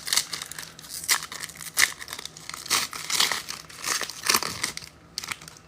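Crinkling and tearing of a trading-card pack's wrapper as it is ripped open and the cards are handled. The sound comes in irregular bursts that thin out near the end.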